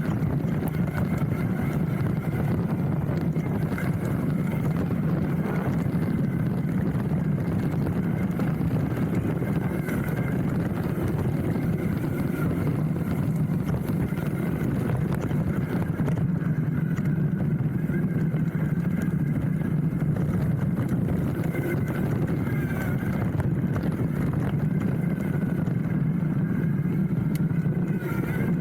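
Steady rumble and rattle of a hardtail mountain bike rolling down a dirt trail: tyre noise and frame vibration, picked up by a camera mounted on the handlebar.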